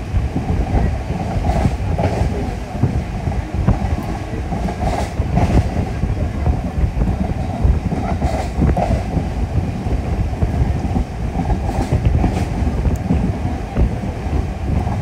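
A Class 13 diesel passenger train running at speed, heard from inside a carriage: a steady rolling rumble of wheels and track, with the wheels clicking over rail joints now and then.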